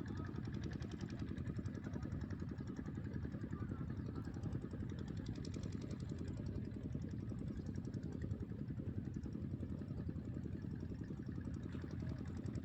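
A steady low engine-like rumble, with a fast, fine pulsing higher up.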